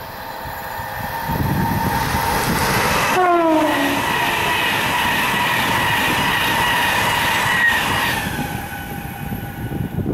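Class 390 Pendolino electric train passing at speed: a rising rush of wheels on rail with a steady electric whine. About three seconds in, a pitched tone drops sharply in pitch. The noise eases after about eight seconds.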